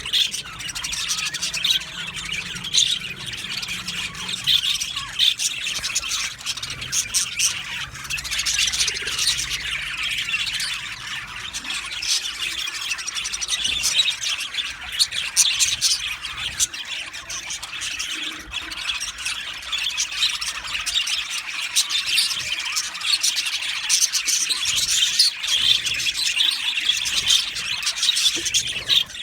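A colony of budgerigars (budgies) chattering and chirping all at once, many birds overlapping in a dense, continuous high-pitched twittering with sharper squawks throughout.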